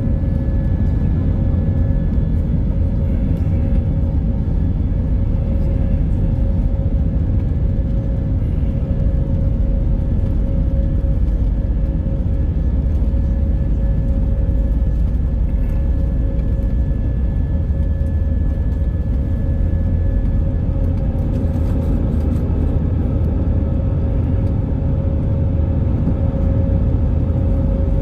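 Airbus A319 airliner cabin noise heard from a window seat: a steady, loud rumble of the jet engines and airflow with a constant whine over it, the level unchanging throughout.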